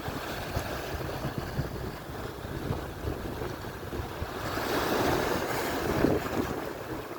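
Atlantic surf: a wave breaks and washes in, swelling to a hiss over a couple of seconds about halfway through, with wind buffeting the microphone.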